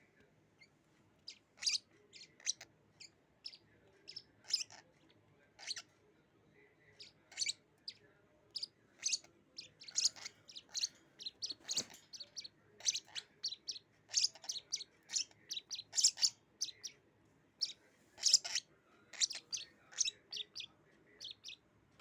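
Lovebirds chirping: many short, high-pitched chirps in irregular runs, starting about a second in and getting busier toward the end.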